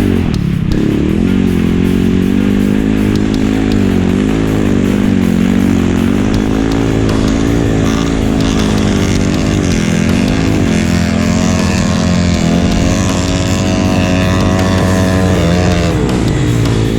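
Enduro motorcycle engine running under load, its pitch rising and falling again and again as the throttle is worked. A second, higher engine note joins about seven seconds in. Music plays underneath.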